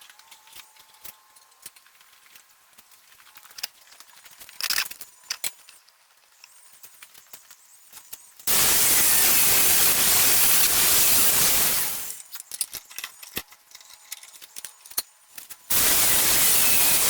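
Power grinder grinding the steel tang of a forged knife: two spells of loud, even grinding noise, each starting and stopping abruptly, the first about three and a half seconds long a little past halfway and the second near the end. Faint clicks and handling sounds come before and between them.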